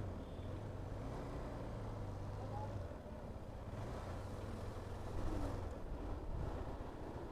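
Steady low engine drone of a motorcycle and heavy trucks in slow traffic, getting a little louder about five seconds in.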